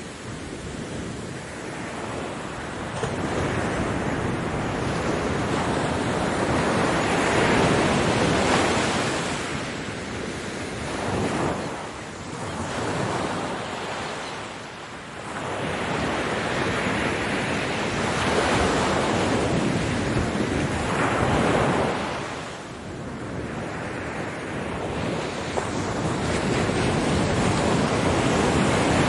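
Ocean waves breaking on a beach, the surf swelling and falling back every few seconds, with wind on the microphone.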